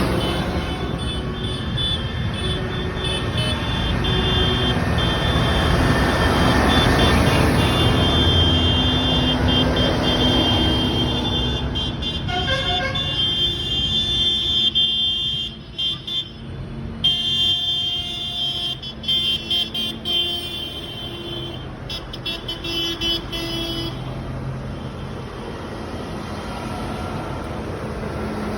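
Tractor engines running as a procession of tractors goes by, with horns sounding in steady notes over the engine noise through the first half.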